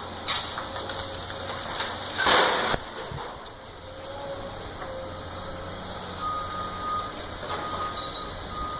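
Heavy demolition machinery running with a steady low engine drone, a loud noisy burst about two seconds in, then a reversing alarm beeping in long tones near the end.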